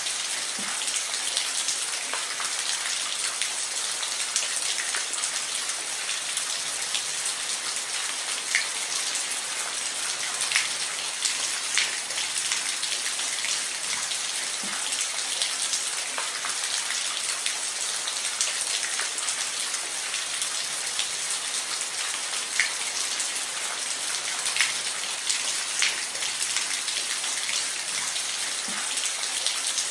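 Steady rain falling on a roof: a dense, even hiss with scattered sharper drop ticks.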